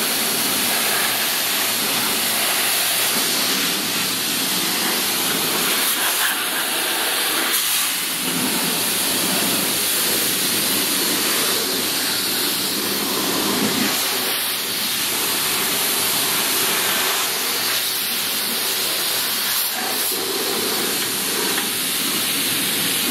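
Car wash pressure-washer wand spraying high-pressure water onto a greasy leaf blower: a steady hissing spray that shifts slightly in tone as the jet moves over the machine.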